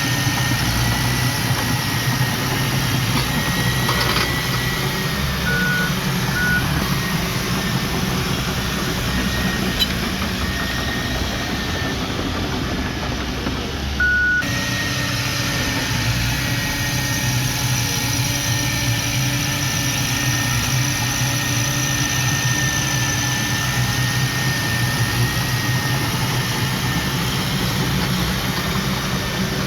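Diesel engine of earth-moving machinery running steadily, with a few short high beeps about six seconds in and again at around fourteen seconds.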